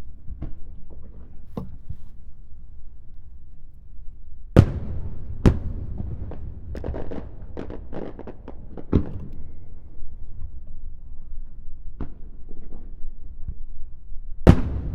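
Aerial fireworks shells bursting over water: sharp loud bangs, the biggest about four and a half, five and a half and nine seconds in and again near the end, with a flurry of smaller crackling reports around seven to nine seconds and a low rumble of echo between them.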